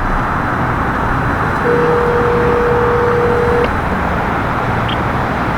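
Telephone ringback tone from a phone on speaker: one steady tone about two seconds long, over a constant wash of traffic noise.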